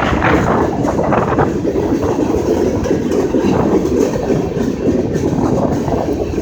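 Freight cars of a long BNSF manifest train rolling past, a steady heavy rumble of steel wheels on rail, with a few short clatters in the first second or so. They are loud enough that the railfan takes them for loaded cars.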